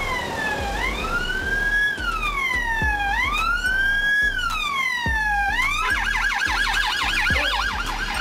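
Police car siren wailing, rising and falling slowly in pitch about every two and a half seconds, then switching to a fast yelp about three-quarters of the way in. Background music plays under it.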